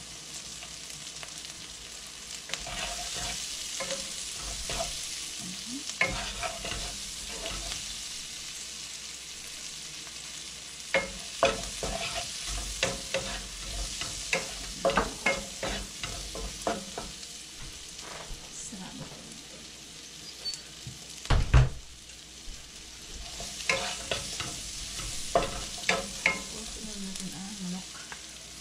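Onions and spices frying in oil in a nonstick pan, with a steady sizzle, while a wooden spatula stirs and scrapes against the pan in bursts of short clicks. A single sharp knock stands out about two-thirds of the way through.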